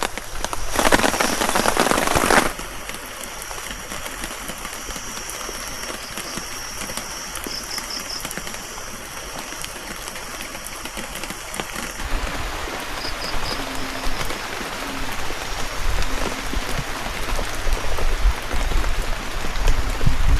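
Steady rain falling, much louder for the first couple of seconds, with a few faint high chirps.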